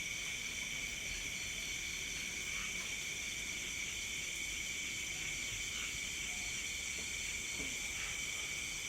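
Night chorus of crickets and other insects: steady, shrill trilling at several pitches at once, with a faint short call every few seconds.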